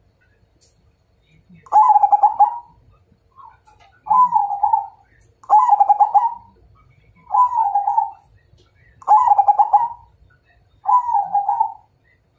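Zebra dove (perkutut) of the Majapahit strain cooing its song: six phrases of about a second each, roughly every one and a half to two seconds, some opening with quick stuttered notes and some smoother and rolling. The keeper takes the song for a challenge to fight.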